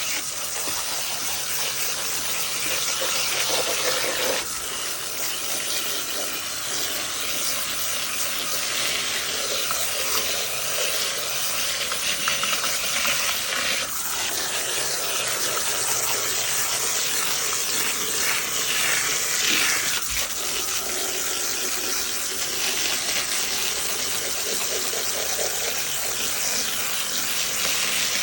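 Water running steadily into horse feed buckets to wet the feed, shifting in tone a few times.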